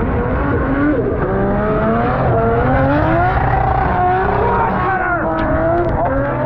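Drift car's engine revving hard through a run, its pitch rising and falling repeatedly with the throttle.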